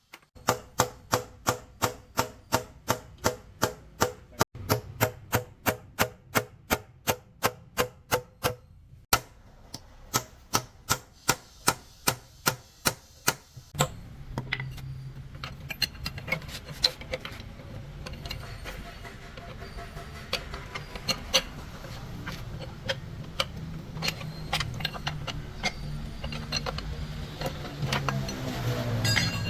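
Hammer blows on metal, about three a second, each with a short metallic ring, through roughly the first half, with a brief pause partway. Then a small power tool's motor runs with a steady hum and a dense crackle, its pitch wavering, and it winds down at the very end.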